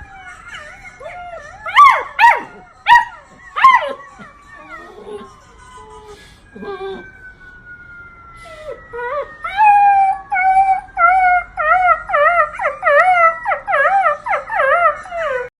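Golden retriever puppy yelping a few times, then howling in a run of short, wavering howls, about two a second.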